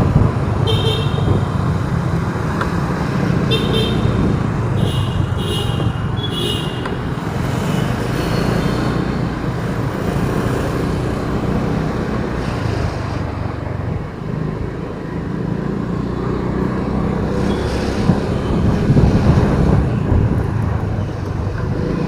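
City street traffic heard from a moving vehicle: a steady engine and road rumble, with several short, high-pitched horn beeps in the first seven seconds.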